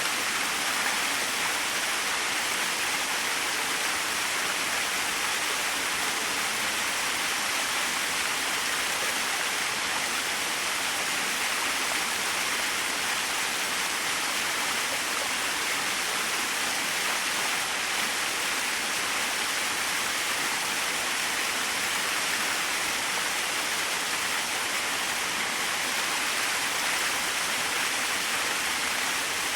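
Small waterfall splashing in a steady, even rush of falling water.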